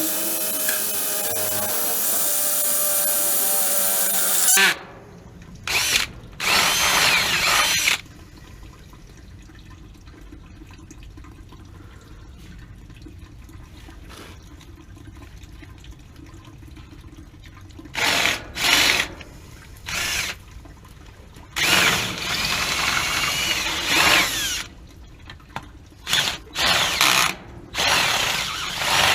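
Power drill running: one steady run of about five seconds, then a string of shorter bursts whose motor whine rises and falls as the trigger is squeezed and eased. A low steady hum lies underneath between bursts.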